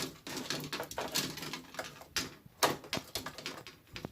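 Irregular clicks, taps and short scrapes of a small tool prodding and rubbing against a bathroom exhaust fan's plastic housing and grille as a stuck dead bird is worked at.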